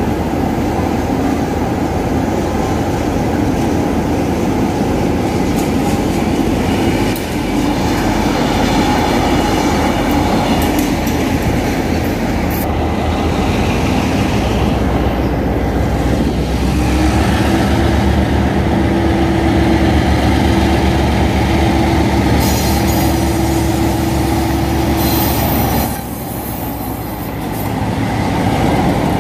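Railway locomotives moving through a station: wheels rolling and squealing on the rails, with a diesel locomotive's engine running as a steady hum through the middle part. The sound changes abruptly about a dozen seconds in and again near the end.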